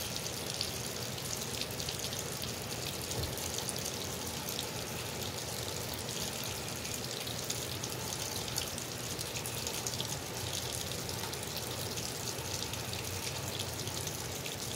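Steady rain on wet pavement, with a stream of runoff water pouring down and splashing, heard as an even rush full of fine drops.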